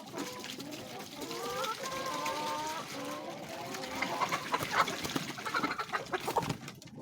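A flock of domestic chickens clucking, several hens calling over one another, with a run of sharp taps in the second half.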